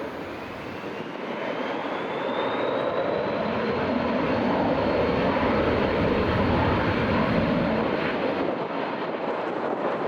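Airliner's engines passing: a steady rush that swells to its loudest midway and eases near the end, with a high whine rising in pitch over the first few seconds and then holding.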